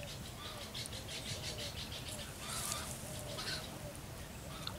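Birds calling over and over in short, similar notes, with brief bursts of hiss about a second in and again about two and a half seconds in.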